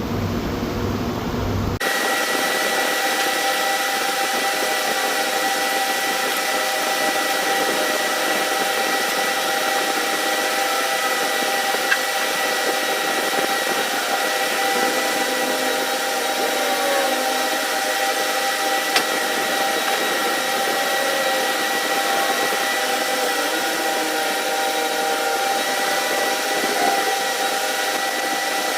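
A machine running steadily, with a constant whine made of several steady tones over a hiss; the sound changes abruptly about two seconds in and then holds steady, with a few faint clicks.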